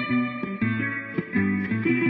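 Instrumental introduction on plucked strings: a rhythmic riff of picked notes, several a second, over a low bass line, with no singing yet.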